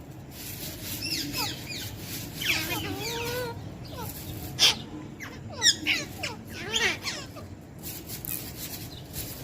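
Pet parrot vocalising in a string of short, pitch-gliding calls, mostly falling in pitch, with a short sharp sound about halfway through.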